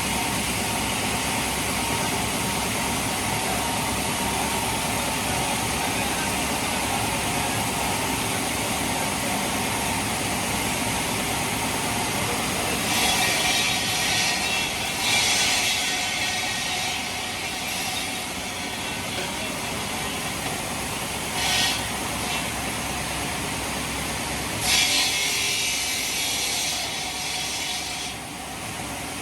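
Heavy machinery running steadily. It is broken by several bursts of harsh, hissing or grinding noise about halfway through, once briefly after that, and again near the end.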